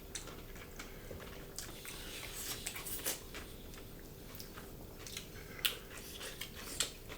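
Close mukbang eating sounds: a person chewing food, with many short, scattered mouth clicks.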